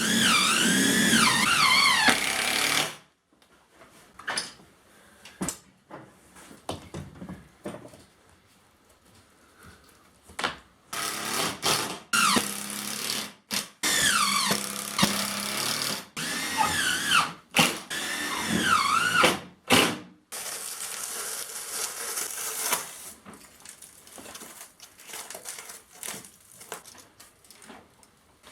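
Power drill running in several short spurts, its motor pitch rising and sagging within each run, with knocks in between.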